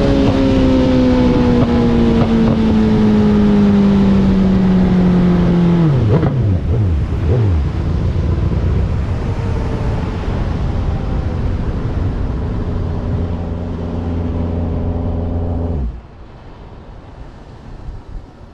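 Suzuki Hayabusa drag-bike engine winding down, its pitch falling steadily, then dropping sharply several times in quick succession as it slows. It settles into a steady low running note and cuts off suddenly near the end.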